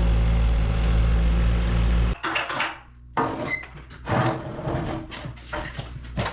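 Kei truck's small engine idling steadily, then shut off abruptly about two seconds in. Several irregular clunks and knocks follow.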